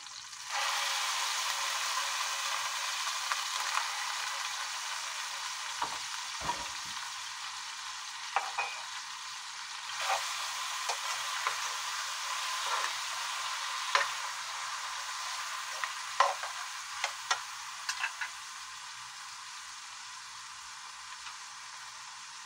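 Fish fillet pieces dropped into hot oil with sliced onion, the sizzling jumping up suddenly about half a second in. A metal spatula stirs them, scraping and clacking against the wok in the middle, then the frying settles to a quieter, steady sizzle near the end.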